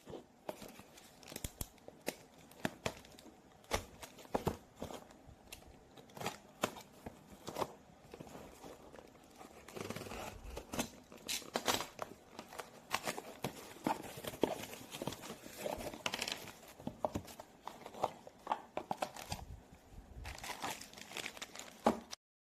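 Packaging being crinkled and torn open by hand, with many irregular sharp clicks and rustles from handling; it stops abruptly near the end.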